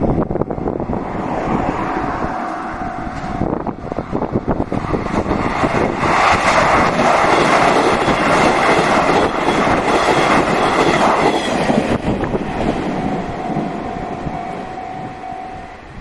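A Nishitetsu electric train running past on the track: wheels clattering over the rails under a loud rumble that peaks mid-way, with a steady high whine near the start and again near the end.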